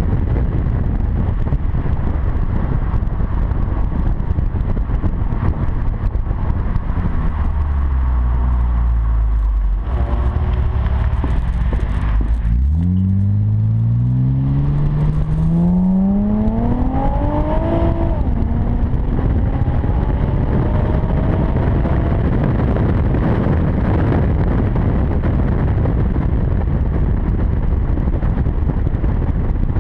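2007 Acura TL's V6 through a quad-tip catback exhaust while driving, with a steady rush of wind and road noise. The exhaust note drops briefly about ten seconds in, then rises steadily in pitch for five or six seconds as the car accelerates.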